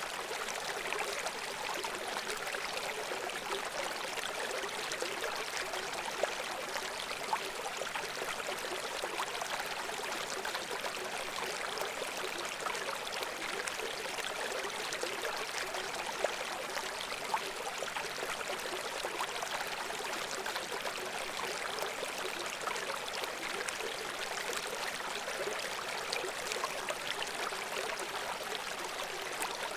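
A shallow brook babbling and splashing over stones in a steady, unbroken flow.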